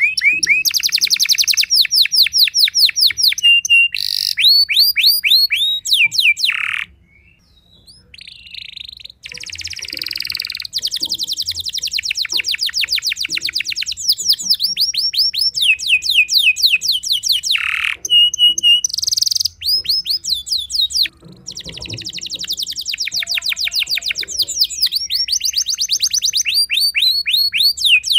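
Domestic canary singing long, loud rolling trills of rapidly repeated downward-sweeping notes, with short shifts between phrases and a brief pause about seven seconds in.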